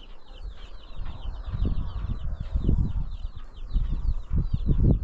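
Small birds chirping rapidly and continuously, each chirp a short falling note, over low rumbling thuds that grow louder in the second half.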